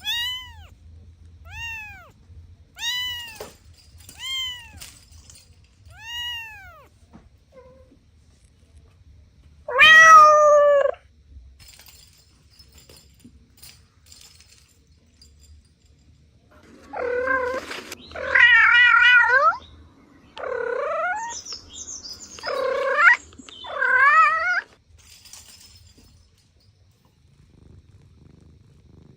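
Kitten meowing: short, high mews about every second and a half, then one longer, louder meow, and later a cluster of loud, wavering meows.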